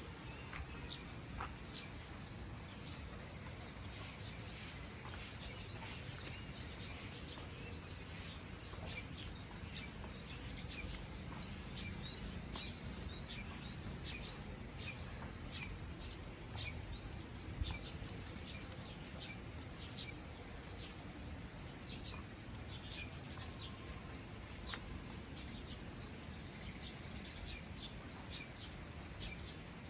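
Birds chirping, many short calls repeating throughout, over a steady low rumble, with one soft thump about halfway through.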